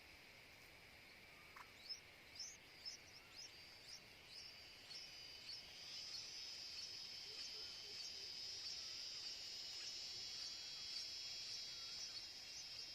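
Forest ambience: a steady, high insect drone, such as cicadas or crickets, that grows louder about halfway through. Over it come short, sharp high chirps about two a second during the first few seconds, and faint lower wavering bird calls now and then.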